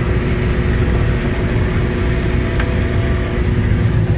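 Tractor and forage chopper running steadily under load while chopping feed into a wagon: a constant heavy engine rumble with a steady machine hum.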